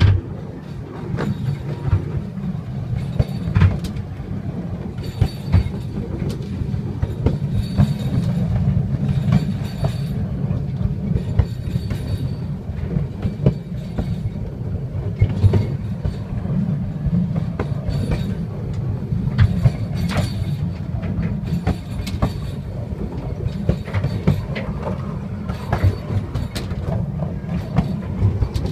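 Narrow-gauge electric train running along the track: a steady low rumble with irregular clicks and knocks as the wheels pass over rail joints.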